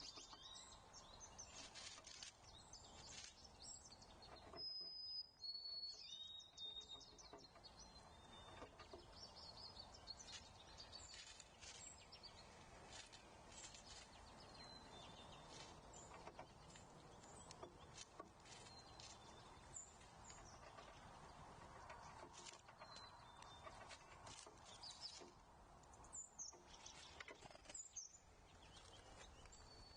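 Faint wild songbirds chirping with short, high calls scattered throughout, over a soft outdoor hiss, with light scattered clicks and taps.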